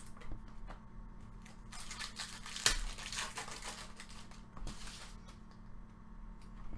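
Crinkling and tearing of a trading-card pack's foil wrapper being opened. There is a couple of seconds of rustling about two seconds in, another short crinkle near the end, and small clicks of cards being handled.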